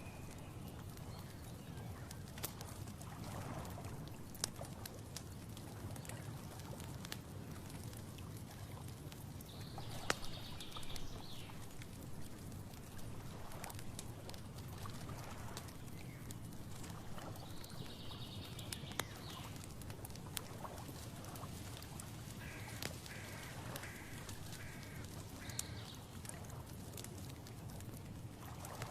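Outdoor nature ambience: a steady low rumble with scattered clicks, and birds calling a few times, once as a run of about five short notes near the end.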